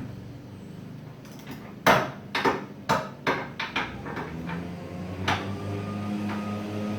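A quick run of sharp knocks and clanks from hand tools, about eight in two seconds, then one more a second and a half later, with a low steady hum coming up behind them.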